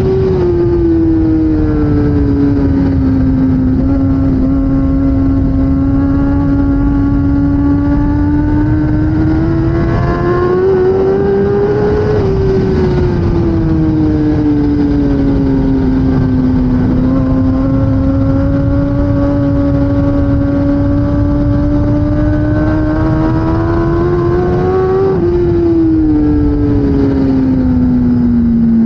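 2016 Kawasaki ZX10R inline-four superbike engine running hard, its pitch falling and then slowly climbing again twice as the revs swing, over a steady low rushing noise.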